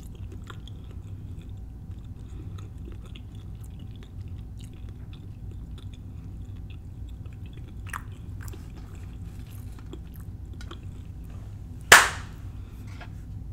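Close-up chewing of a bite of deep-fried empanada with a flaky pastry crust: soft mouth sounds with small crunches and clicks. About twelve seconds in comes a single sharp hand clap, the loudest sound.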